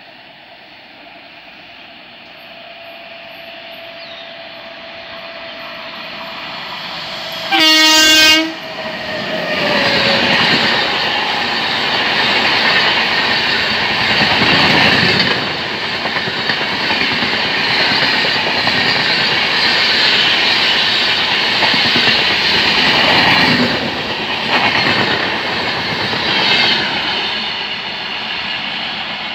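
An electric express train approaches at speed, growing steadily louder, and gives one short, loud horn blast about eight seconds in. Then the locomotive and its LHB coaches run past with a heavy rumble and the clickety-clack of wheels over rail joints, easing off near the end.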